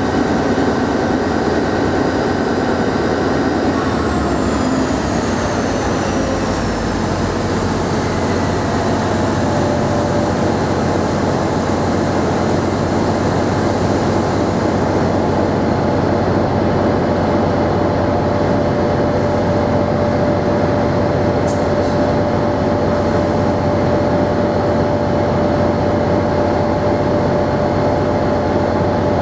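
Passenger train running, with a loud steady rumble. Several high whining tones fall in pitch from about four seconds in, and a steady hum holds after that.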